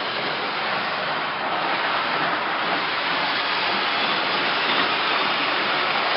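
O-gauge model trains running on a large layout, a steady rolling noise of wheels and motors on the track.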